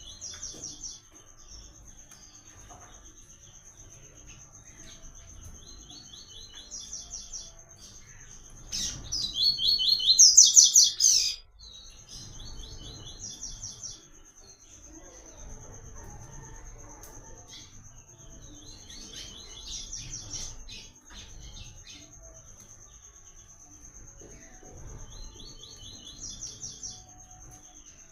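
Papa-capim (coleiro) seedeater singing short, rapid trilled phrases in a repeated pattern every few seconds; the loudest burst comes about a third of the way in. A thin, steady high-pitched whine runs underneath.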